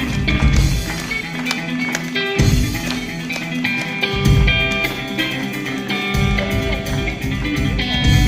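Guitar solo: a quick succession of plucked notes, with deep bass notes struck every couple of seconds.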